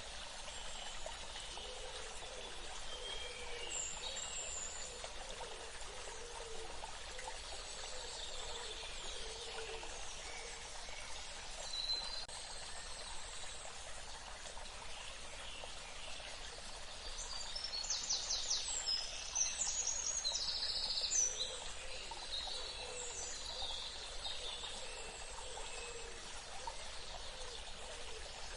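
Water trickling and running steadily, with birds chirping over it. About two-thirds of the way through, a bird gives a burst of rapid repeated notes, the loudest part.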